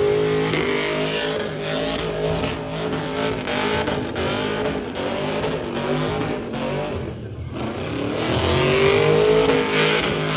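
Car engine revving and accelerating hard, its pitch rising and falling. It drops off briefly a little past halfway, then climbs again in a loud surge.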